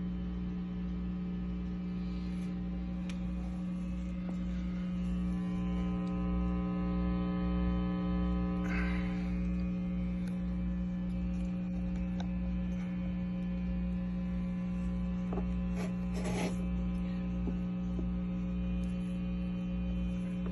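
Guitar amp hum and buzz from a faulty Bogner Ecstasy Red overdrive pedal: a steady pitched drone over a pulsing low throb, with a few brief crackles and clicks about nine and sixteen seconds in. The owner gets this noise even with the pedal's volume and gain turned down and on battery power, and puts it down to a fault in the pedal's internal hardware.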